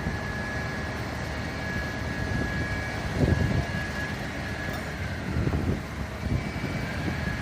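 Fire truck engine running, a low rumble with a steady high-pitched whine that fades about two-thirds of the way through and comes back near the end, and a few dull knocks.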